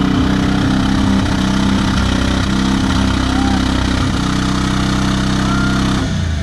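Off-road 4x4's engine running hard and steady, easing off about six seconds in.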